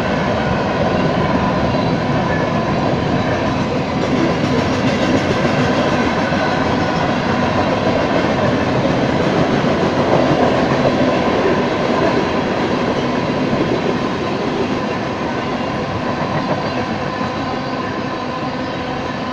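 Freight cars of a Union Pacific manifest train rolling past, their wheels rumbling and clattering on the rails. Steady high ringing tones run over the rolling noise.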